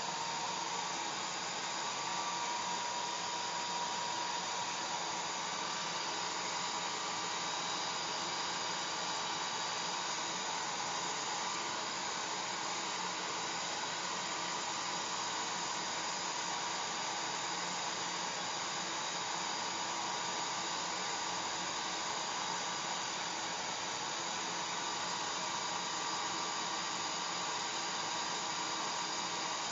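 Hair dryer running continuously: a steady rush of blown air with a faint constant motor whine.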